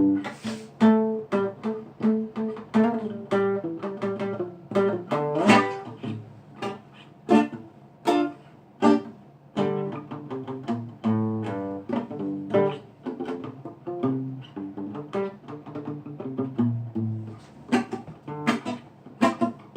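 Acoustic guitar playing an instrumental reggae passage, plucked and strummed notes over a bass line, with no singing.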